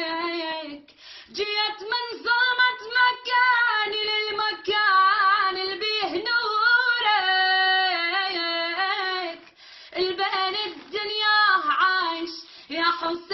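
A young girl singing unaccompanied in a high voice, drawing out long wavering lines of a religious chant to Imam Hussein, with short breaths between phrases.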